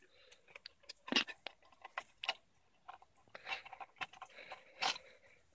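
Scattered light clicks, ticks and scrapes of hands working an oil filter free from its housing.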